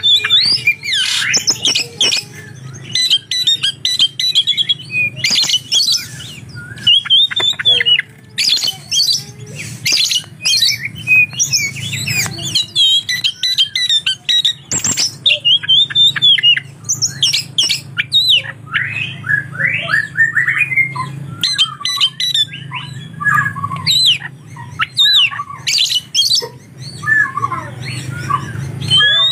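Oriental magpie-robin singing a fast, nonstop, varied song of quick rising and falling whistles and short harsh notes, full of mimicked lovebird calls.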